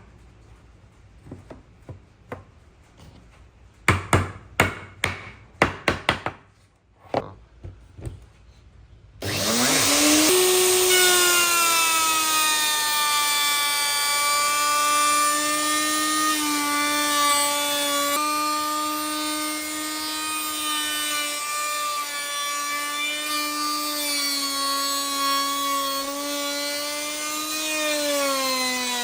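A few sharp wooden knocks, then about a third of the way in an electric power tool starts up with a quickly rising whine. It runs steadily cutting wood, its pitch dipping slightly now and then under load.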